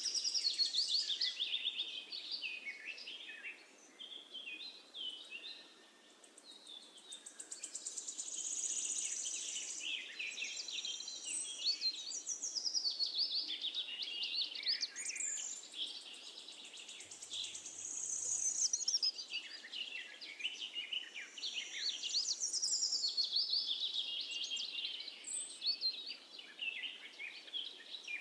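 Birds chirping and singing: a dense, continuous run of quick high chirps and trills that swells and fades, quietest around four to six seconds in.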